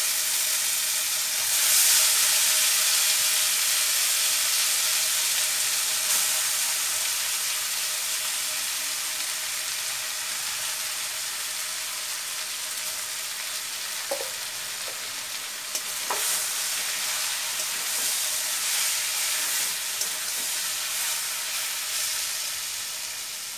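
Grated raw mango sizzling in hot mustard oil in a stainless-steel wok. The hiss is loudest as the mango goes in and slowly dies down, and in the second half a few sharp knocks and scrapes of a spatula stirring against the wok.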